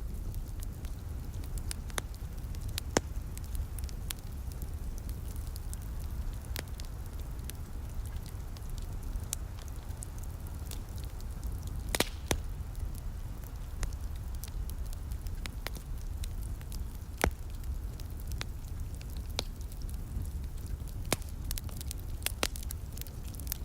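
Wood fire crackling in a fireplace: irregular sharp pops and snaps, the loudest about halfway through, over a steady low rumble.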